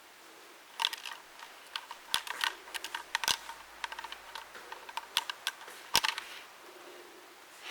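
A quick, irregular run of sharp clicks and taps, several a second, with a few louder knocks about two, three and six seconds in.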